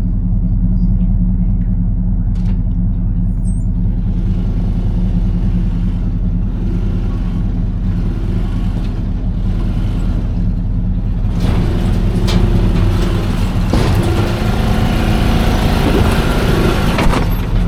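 Polaris utility vehicle's engine running steadily, as it is driven onto a trailer. About eleven seconds in, the engine gets a little louder and rougher.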